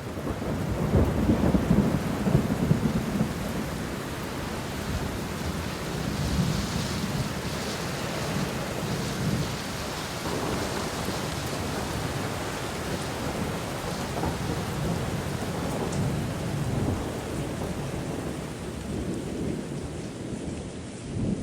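Thunderstorm: steady rain with low rolling thunder, the thunder loudest in the first few seconds.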